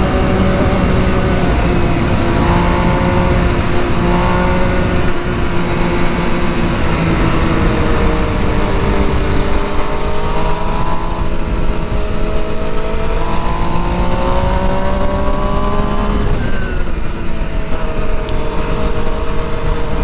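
Sport motorcycle engine pulling at speed, its pitch rising under throttle in the middle and again later, then dropping sharply as the throttle closes near the end, with heavy wind rush on the microphone.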